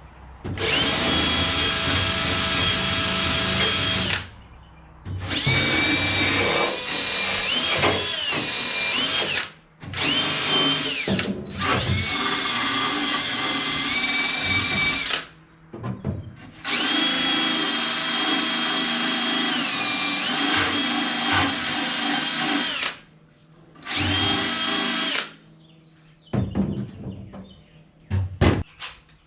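Handheld electric power tool run in six bursts of a few seconds each, its whine sagging in pitch when pressed into the work while cleaning the car's floor metal ready for welding. A few light knocks near the end.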